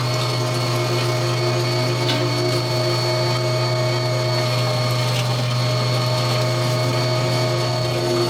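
A small electric motor running steadily with a strong hum and a high whine.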